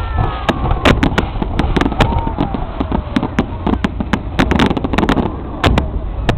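Fireworks bursting overhead in rapid, irregular cracks and bangs over a continuous deep rumble, with a falling whistle in the first second.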